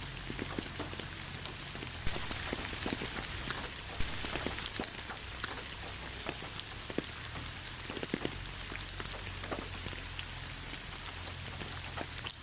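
Steady rain falling, a continuous hiss with many individual drops ticking irregularly on a surface, over a low steady hum.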